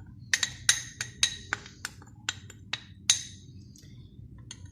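A spoon clinking against a bowl while gram flour is moved from one bowl to another: about ten quick clinks, each with a short metallic ring, over three seconds, then a couple of fainter taps near the end.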